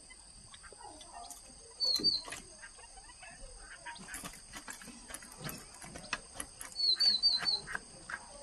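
Caged songbird chirping: two quick notes about two seconds in and a rapid run of four near the end, over scattered small clicks and a steady high-pitched whine.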